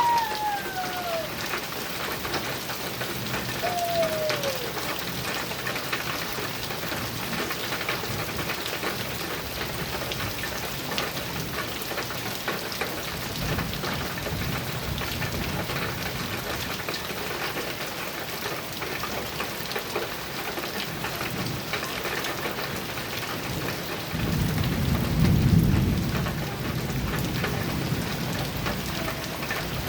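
Heavy rain drumming steadily on a metal roof, with a dense patter of drop impacts. A low roll of thunder swells and fades about 25 seconds in. Two brief falling whistle-like calls sound near the start.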